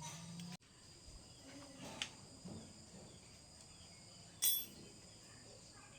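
Steady insect chirring, crickets by the sound of it, with a low hum that cuts off suddenly just after the start. A few faint knocks follow, and one sharp click about four and a half seconds in.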